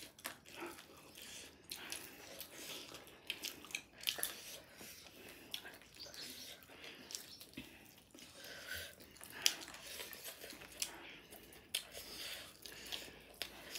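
Eating sounds: chewing and biting into food, with irregular short clicks and smacks.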